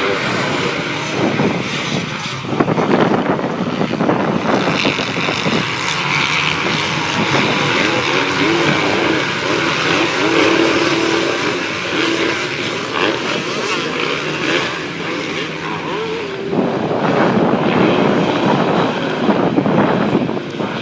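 Motocross bike engines revving hard, the pitch rising and falling as the bikes accelerate and shift.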